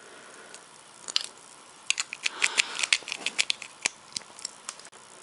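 Plastic LEGO bricks clicking and rattling as they are handled and fitted together: a couple of sharp clicks, then a quick run of a dozen or so.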